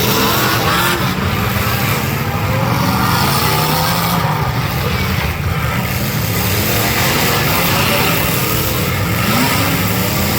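Demolition derby cars' engines running loudly together, revving up and down so the pitch rises and falls.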